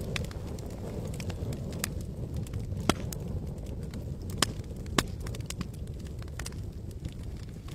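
Wood campfire crackling: irregular sharp pops and snaps, three louder ones in the middle, over a steady low rumble.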